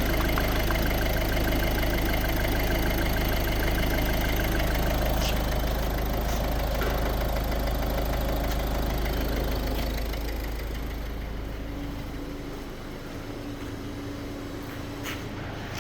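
Ford Focus 1.6 TDCi four-cylinder diesel (T1DA) idling steadily under test. About eleven to twelve seconds in, its rumble dies away and the sound drops to a quieter background with a faint steady hum.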